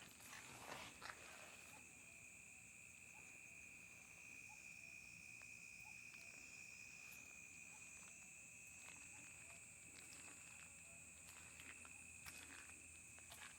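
Faint chorus of crickets and other night insects trilling steadily in two high continuous tones, with a few soft footsteps in the first couple of seconds and again near the end.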